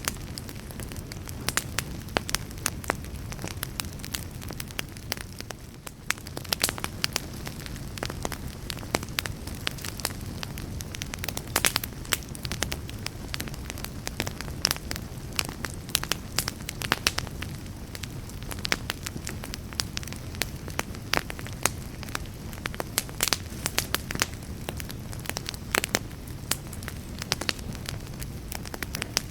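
Fireplace fire crackling and popping: frequent irregular sharp pops and snaps over a steady low rumble of burning flames.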